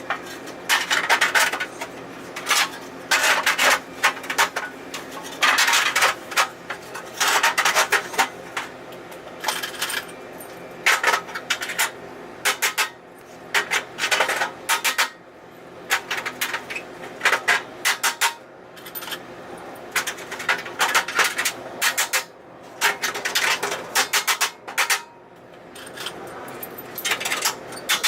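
Metal clanking and scraping in irregular bursts every second or so, from hurricane shutter panels being handled and fitted over a window.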